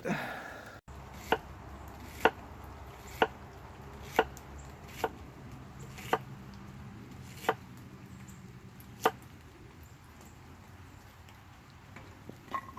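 A knife chopping vegetables on a cutting board: eight sharp chopping strokes, roughly one a second, that stop about three-quarters of the way through.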